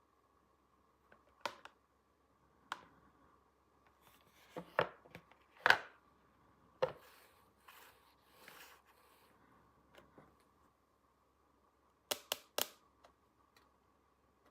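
Small plastic toy pieces being handled and set down: scattered clicks and taps, the loudest about six seconds in, a quick run of three near the end, with soft rustling between.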